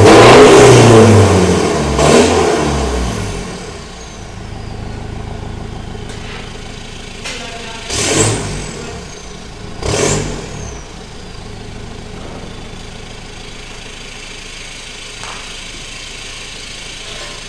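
Ford Ranger Raptor's engine revved through a full stainless-steel exhaust system. A loud rev falls away over the first few seconds to a steady idle. Two short throttle blips come about two seconds apart near the middle.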